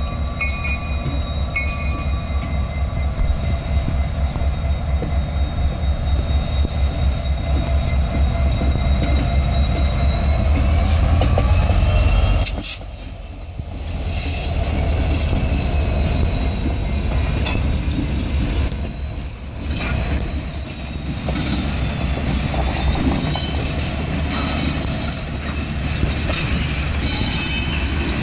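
Diesel locomotive pulling a train away, its engine giving a heavy, pulsing low sound that grows louder and then drops off sharply about halfway through as the engine passes. The passenger-type test cars follow, rolling by with steady wheel-on-rail noise and thin, squealing tones from the wheels.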